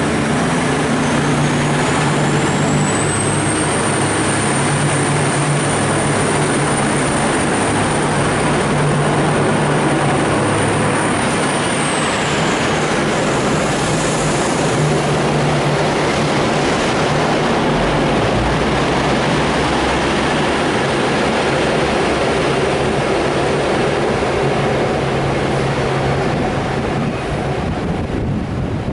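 V/Line VLocity diesel multiple units pulling out and accelerating: diesel engines running under load with steady rumble, and a high whine that rises in pitch over the first few seconds, holds, then falls away about twelve seconds in.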